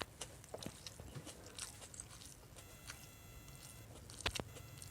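Close-up eating sounds of milkfish stewed in vinegar: chewing and biting with many small sharp clicks, the loudest a little over four seconds in.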